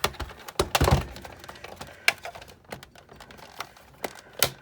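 Irregular clicks and knocks of hard parts being handled while a Sizzix Big Shot die-cutting machine is taken apart, with a quick cluster of knocks about a second in and single sharp clicks around two seconds and near the end.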